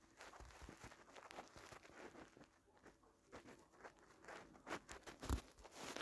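Near silence in a small room, broken by faint scattered clicks and taps, with a slightly louder knock about five seconds in.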